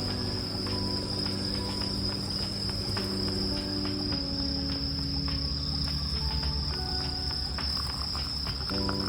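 Insects trilling in one steady, high, unbroken tone. Beneath it are soft sustained music chords that shift every second or two, and scattered faint clicks.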